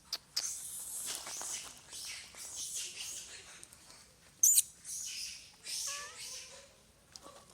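Baby monkey crying in a run of short, shrill, hissy squeals, with a few thinner pitched squeaks near the end. A sharp click about four and a half seconds in is the loudest sound.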